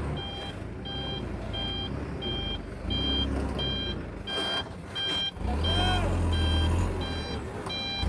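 Dump truck's reversing alarm beeping steadily, a little under two beeps a second, over the low hum of its diesel engine.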